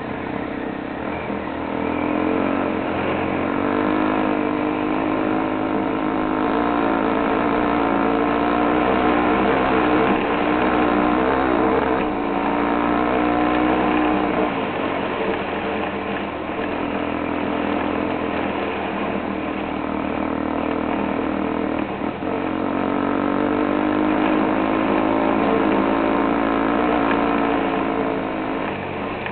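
Several motorcycle engines running together, their pitch rising and falling as they are revved.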